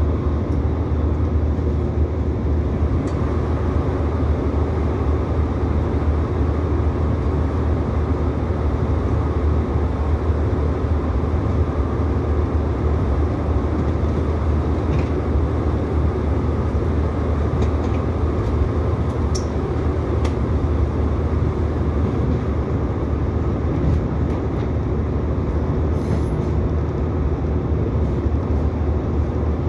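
Steady in-carriage running noise of an Irish Rail 2800-class diesel multiple unit: a constant low rumble of the underfloor engine and wheels on the rails, with a few faint clicks, as the train rolls slowly on its final approach into the station.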